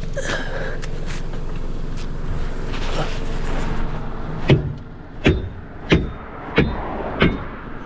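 Five hard knocks, evenly spaced about two-thirds of a second apart, struck at a wheel that is stuck on its hub during a roadside tire change. They follow a few seconds of steady vehicle and traffic rumble.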